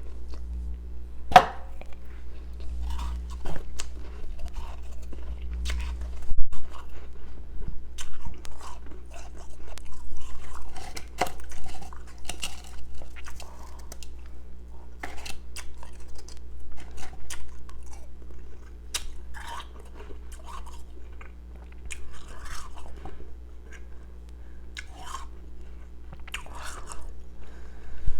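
Close-up chewing and crunching of powdery, carbonated ice pieces, with irregular sharp crunches throughout, over a steady low hum.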